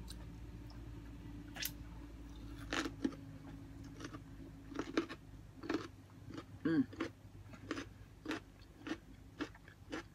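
A person chewing food close to the microphone: crisp, wet crunches, scattered at first, then a steady rhythm of about one every half second. A brief voiced mouth sound comes a little past the middle.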